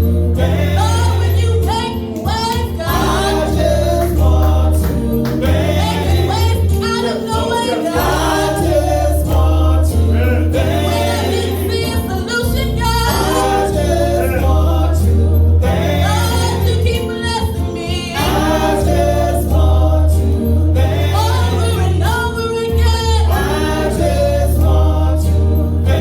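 Gospel singing by a group of voices over a strong bass accompaniment.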